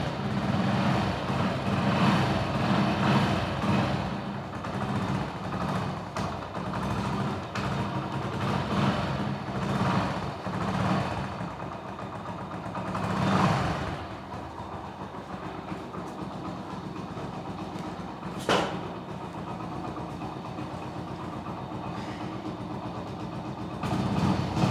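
Motorcycle engine running, revved in several surges during the first half and then settling to a steadier idle. A short sharp chirp cuts in about 18 seconds in.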